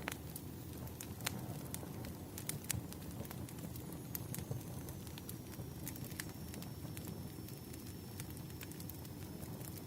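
Bonfire burning: irregular sharp crackles and pops of burning wood over a steady low rumble of flame.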